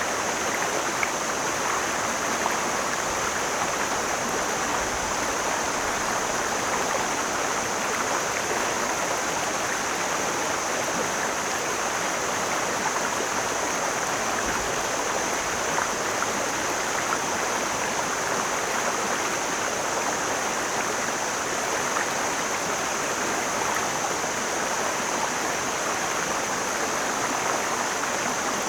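Mountain stream flowing over rocks, a steady, even rushing of water that doesn't change.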